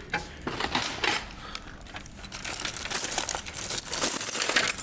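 Crinkling and rustling of items being handled: a few scattered clicks and knocks at first, then from about halfway through a continuous crackly rustle.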